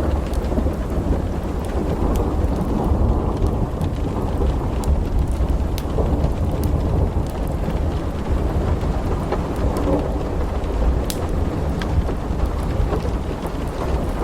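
Thunderstorm ambience: steady rain with a continuous low rolling rumble of thunder, and scattered sharp crackles throughout.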